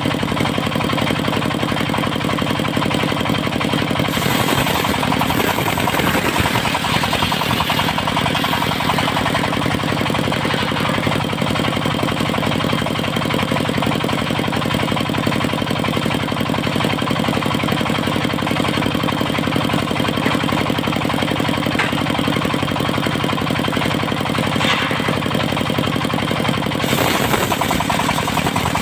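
Diesel engine of a portable circular sawmill running steadily with a fast, even chugging beat. The tone shifts about four seconds in and again near the end.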